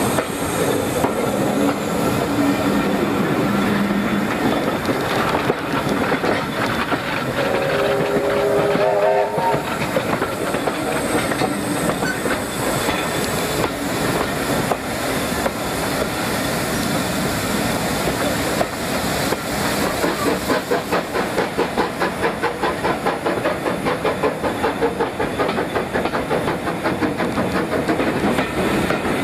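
A steam-hauled train running on the line, with a steady rumble and hiss. A short pitched call comes about eight seconds in, and a regular beat of about two to three a second sets in after about twenty seconds.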